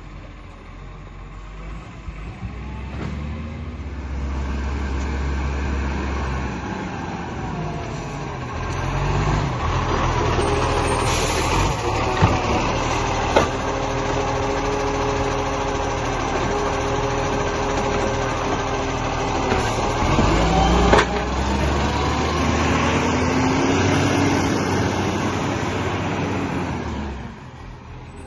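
Garbage truck engine running, revving up and holding high revs for most of the stretch, with a few sharp knocks in the middle, then settling back near the end.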